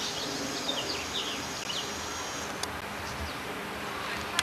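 Small birds chirping in short, quick chirps over a steady high-pitched whine that cuts off suddenly about two and a half seconds in. A sharp click follows soon after, and another comes at the very end.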